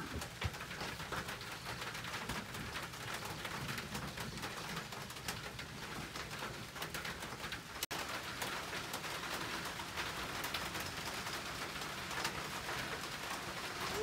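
Birds calling outdoors, among them a dove cooing, over a steady hiss with scattered small clicks and taps; the sound drops out briefly about eight seconds in.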